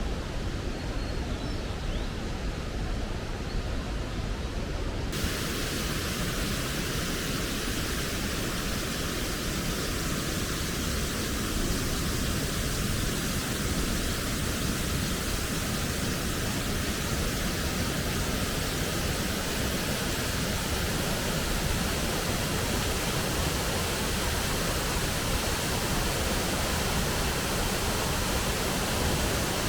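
Rushing water of a mountain stream, a steady hiss of falling and flowing water; it turns brighter and fuller about five seconds in.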